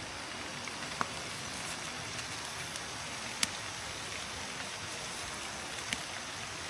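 Steady hiss of water, rain or running water, with three isolated sharp ticks: about a second in, midway, and near the end.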